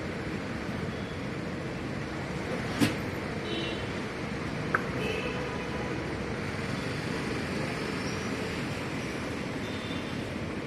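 Steady background din of a vehicle service bay, with a sharp knock about three seconds in and a lighter click a couple of seconds later as the car lift's jack pads are set under the vehicle.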